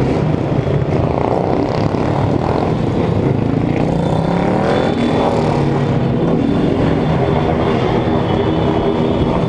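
Several motorcycle engines running together, their pitches rising and falling as they rev.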